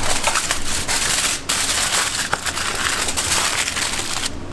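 Dense crackling noise: many small sharp pops over a steady hiss. It drops out briefly about a second and a half in and stops near the end.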